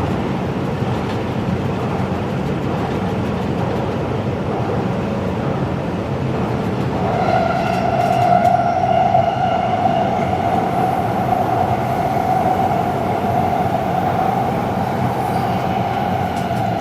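Taipei Metro train running on the Zhonghe–Xinlu line: a steady rumble of wheels and running gear. About seven seconds in, a steady high-pitched whine joins it and holds on.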